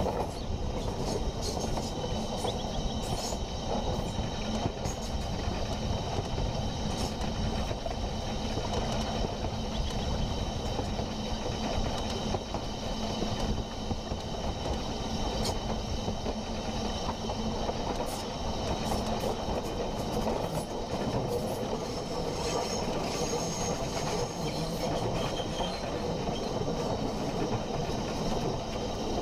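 Train running along rails: a steady rumble with occasional faint clicks.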